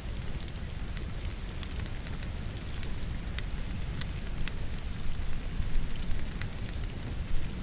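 Firewood burning in a fireplace, crackling and popping at irregular moments over the steady hiss and patter of rain.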